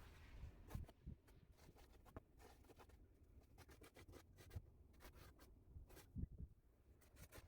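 Faint scraping and crunching of snow being shoveled, with a few soft thumps.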